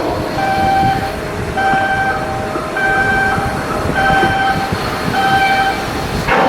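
A warning beeper sounding a repeated single-pitched beep, about once every 1.2 seconds, five times, over steady machinery noise.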